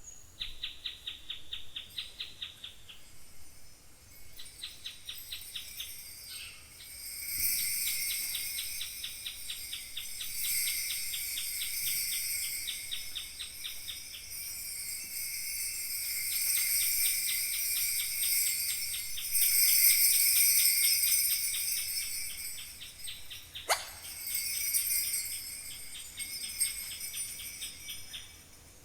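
Kaskawillas, Mapuche bronze jingle bells, shaken in a fast steady rhythm of about seven or eight shakes a second. The shaking thickens into a dense, bright jingle, loudest about two-thirds of the way through, in imitation of falling water. A single short falling swish comes late on.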